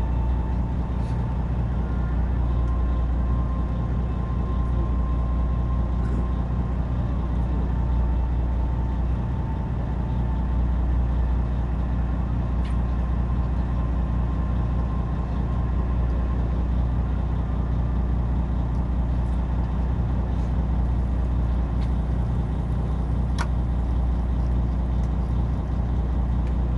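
A fishing boat's engine running at a steady speed, a low, even hum with no change in pitch.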